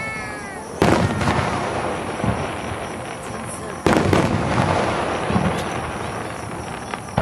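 Aerial firework shells bursting: two loud booms about three seconds apart, each trailing off in a long echo that slowly dies away.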